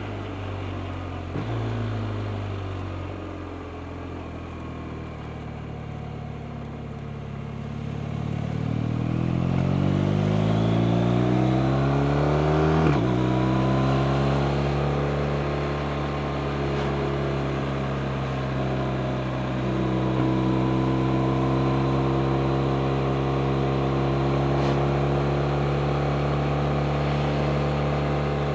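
BMW R 1250 RT's 1254 cc boxer-twin engine heard from on board the motorcycle. It pulls with rising pitch for several seconds, then a gear change about halfway through drops the pitch, and it runs on at a steady engine speed.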